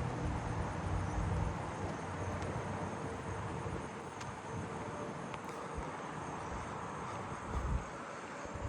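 Crickets calling steadily in the background, faint over a low outdoor background hum.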